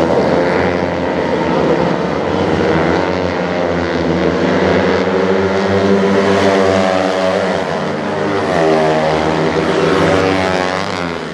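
Several Honda NSR50-type two-stroke 50cc mini racing bikes running hard together in a pack. Their high buzzing engines overlap, with pitches rising and falling as the riders accelerate out of corners.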